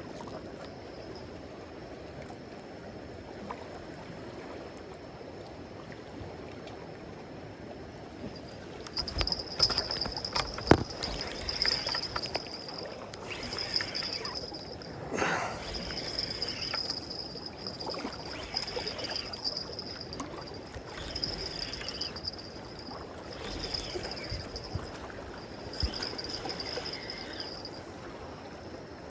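Steady wash of water. From about nine seconds in, a fishing reel is wound in short repeated bursts, each with a thin high whirring whine, while a hooked fish is being brought in. A few knocks fall among the bursts.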